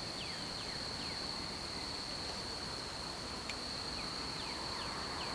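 Insects trilling in one steady high-pitched tone, with faint short falling chirps repeating through it.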